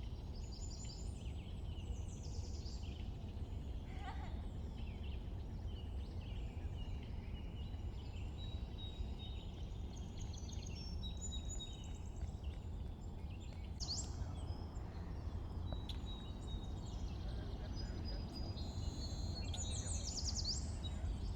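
Several songbirds chirping, trilling and whistling, calls overlapping throughout, over a steady low rumble.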